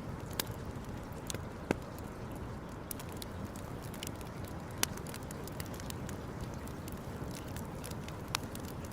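Campfire crackling: irregular sharp snaps and pops, three of them louder, over a steady low rumble.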